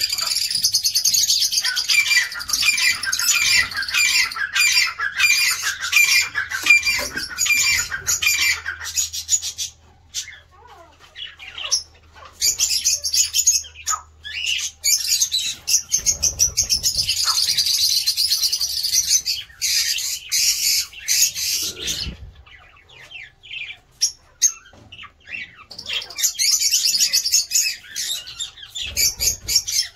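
A colony of birds chattering and squawking together, many high-pitched calls overlapping. The calls come in waves: a long dense stretch at the start, another in the middle, and a third near the end, with scattered single calls in the quieter gaps between.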